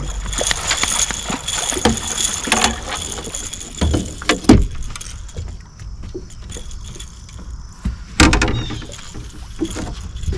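Irregular knocks, clatter and rattling of gear on a fishing boat while a hooked catfish is played and landed, with two louder knocks about halfway through and near the end.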